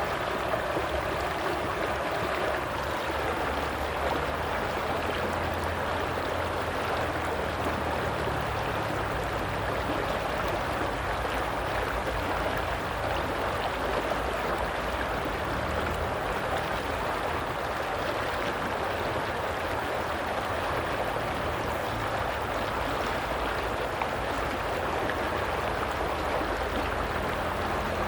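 Stream water flowing steadily over rocks, an even rushing and gurgling.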